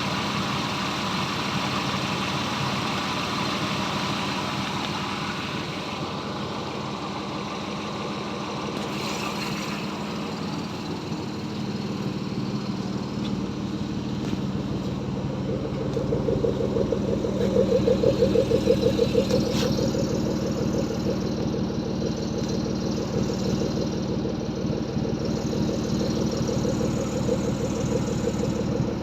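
The swapped-in engine of a Jaguar XJ running steadily; about halfway through its sound changes to a louder, evenly pulsing note.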